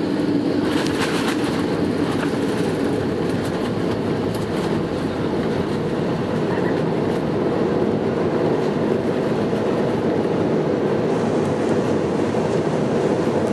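Cabin noise inside an Airbus A319 rolling on the ground after landing: a steady rumble from the engines and wheels, with light rattling clatter as the gear runs over the pavement.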